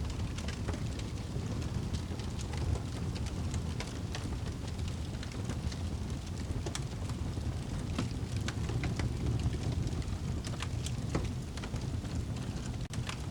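Wood fire burning in a fireplace: a steady low rushing rumble with frequent sharp crackles and pops.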